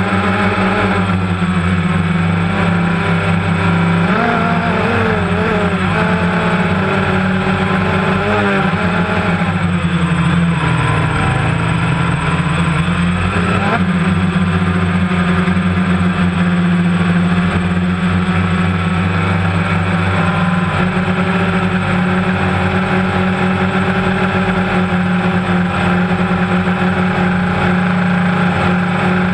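Quadcopter drone's motors and propellers droning steadily. Their pitch wavers and dips between about four and fourteen seconds in as the motors change speed, then holds steady.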